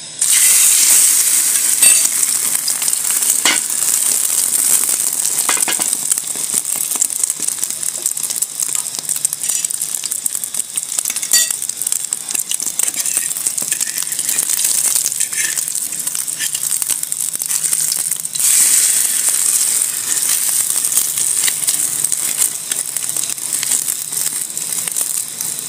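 Egg-dipped bread frying in hot oil in a non-stick pan: a loud, steady sizzle that starts abruptly and swells again about 18 seconds in, with a few light clicks along the way.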